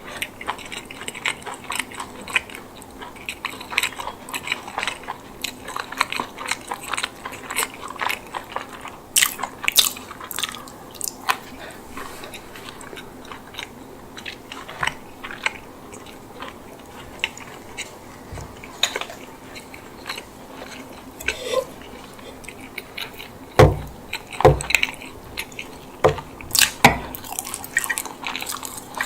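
Close-miked eating of a chicken bake: biting into and chewing baked bread with herb chicken and mozzarella, with crisp crackles of crust through most of it and a few heavier, deeper bites or mouth sounds near the end.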